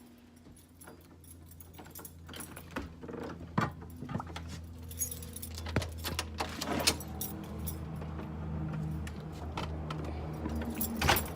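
Keys jangling with a run of sharp clicks and knocks as things are handled in a car, over a steady low hum from the car.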